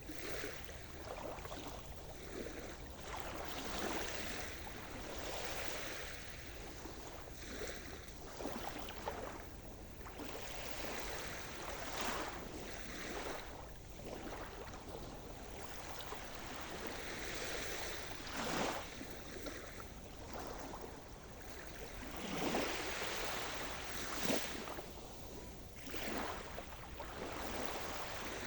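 Sea surf: waves breaking and washing up the shore again and again, a continuous rush with a fresh swell every few seconds.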